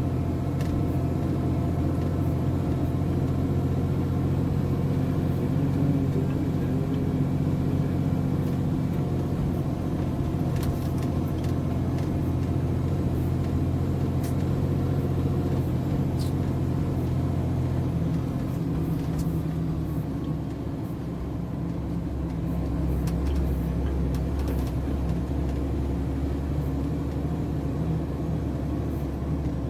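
Heavy truck's diesel engine running steadily under way. About two-thirds through, its note drops and settles lower.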